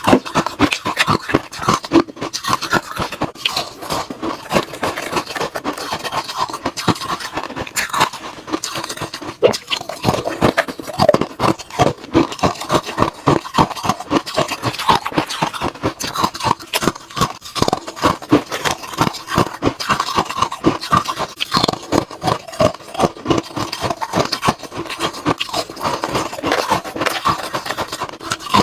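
Ice cubes being bitten and chewed close to the microphone: an unbroken run of sharp crunches, several a second.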